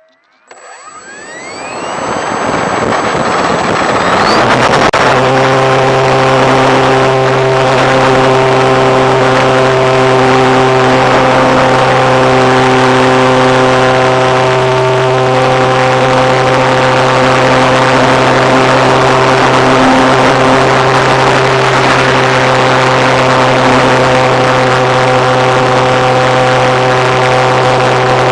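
A radio-controlled model airplane's engine starting up: a rising whine over the first few seconds, then running steadily at a constant pitch.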